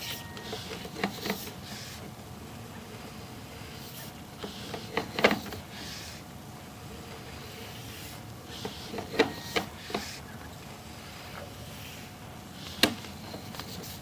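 Sewer inspection camera push cable being fed down the line: a few scattered knocks and rubs over a steady faint hum, the loudest about five seconds in and another near thirteen seconds.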